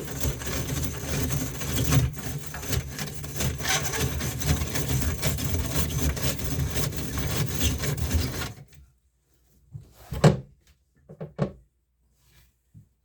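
Drain snake being spun as its steel cable is fed down a sink drain: a dense rattling and scraping that stops abruptly about eight and a half seconds in, followed by a few separate knocks.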